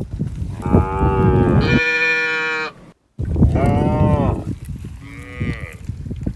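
Zebu cattle mooing: four long moos in quick succession, the first two running together, the last shorter and higher. A brief dropout breaks the sound near the middle, over a steady low rumble.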